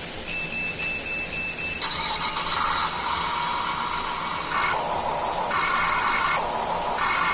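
Small electric gear motors of a homemade cardboard RC road roller running with a whine, the pitch and tone shifting abruptly several times as the motors change.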